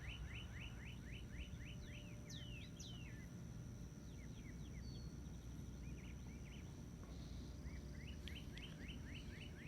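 Songbirds singing in the distance: a rapid series of short rising chirps, about five a second, at the start and again near the end, with a few higher falling whistles and scattered notes between. A steady faint high tone and a low background rumble lie underneath.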